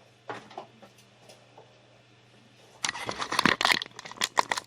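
A few faint clicks, then about three seconds in a dense burst of crackling and rustling, like something crinkly being handled close to the microphone.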